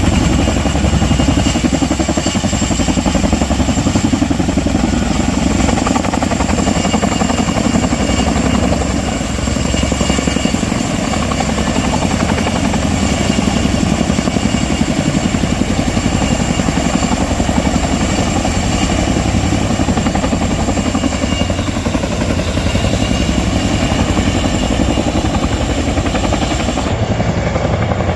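Helicopter running loud and steady overhead, its rotor giving a fast, even chopping beat over a deep rumble.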